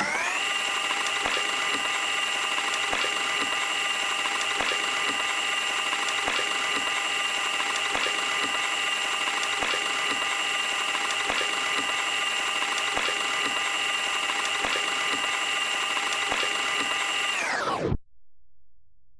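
Washing machine spinning: the motor's whine finishes climbing in pitch, then holds steady with faint regular ticks, and near the end winds down in pitch and stops.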